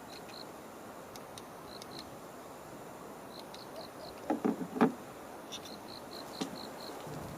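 Short, high chirps repeating in quick runs, typical of an insect calling. A brief clatter of knocks comes about four and a half seconds in.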